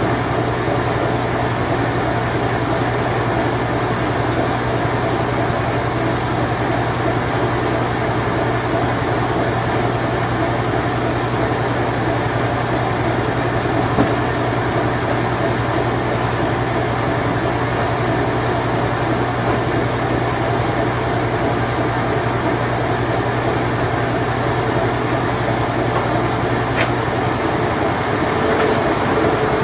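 Late-1980s to early-1990s Whirlpool Imperial Clean Touch washing machine running with a steady mechanical hum and a single click about halfway through. A higher steady tone joins near the end.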